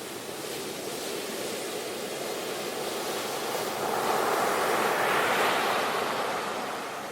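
Ocean waves breaking on the shore: a steady wash of surf that swells to a crest about four to six seconds in, then draws back and fades.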